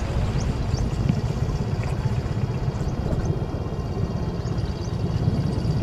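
Motorcycle running along a rough dirt-and-stone track, a steady low rumble with a few small knocks from the bumpy ground.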